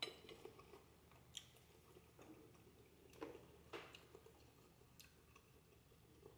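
Faint chewing of spaghetti with sausage, with a few soft, wet mouth clicks.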